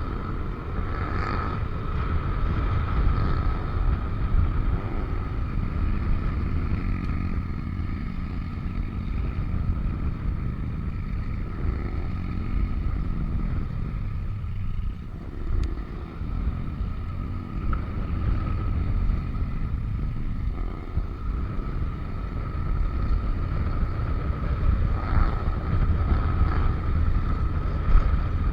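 Yamaha NMAX scooter riding along, its running drowned in a heavy low rumble of wind on the microphone, with a steady thin high tone throughout.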